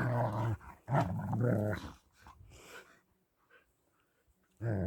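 German Shepherd vocalising in a low, drawn-out grumbling 'talk', two long bouts that stop about two seconds in.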